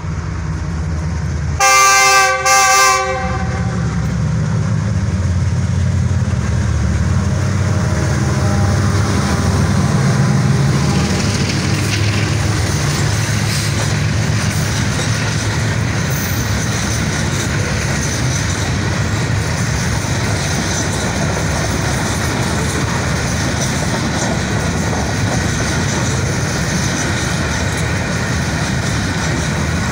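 Diesel locomotive horn sounding two short blasts about two seconds in as the train approaches. The locomotive then rumbles past, loudest around ten seconds in, followed by the steady rumble and clickety-clack of a long line of loaded freight wagons rolling by on the rails.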